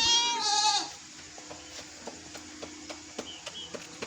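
A goat bleating once, a wavering call just under a second long at the start. After it come faint bird chirps and small clicks.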